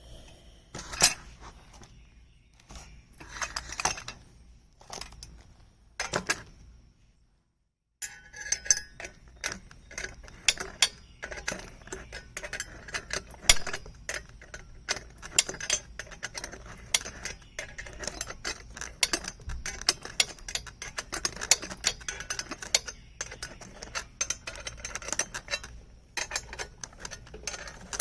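Small metal parts and tools clinking and clicking against an aluminum chainsaw mill frame during assembly. A few separate clinks come first, then a dense, irregular run of quick metallic clicks after a brief dropout about seven seconds in.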